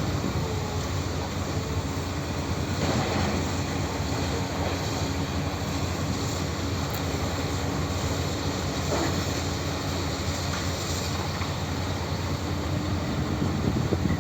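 Tractor engine running steadily under work, with a few faint clatters.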